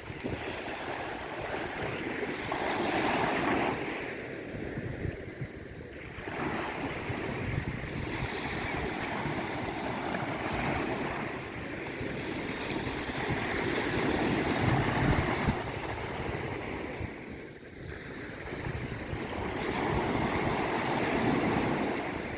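Sea waves washing in on a shore, a steady rush of surf that swells and falls back in slow surges every several seconds.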